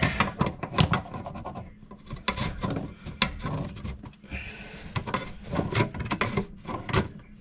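A threaded fitting on a washing-machine valve being tightened with a wrench: a run of irregular metal scrapes and clicks.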